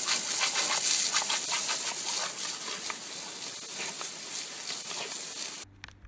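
A jet of water from a hose hissing and splattering as it hits a German Shepherd snapping at the stream and the wet grass, with many small crackling spatters. It cuts off suddenly about five and a half seconds in.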